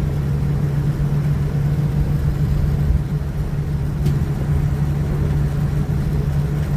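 Steady low rumble and hum inside a Boeing 787-9 cabin, engines running on the ground, with a faint click about four seconds in.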